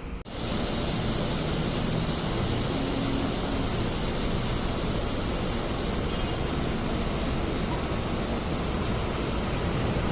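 Steady rushing rumble of an approaching train, swelling slightly near the end.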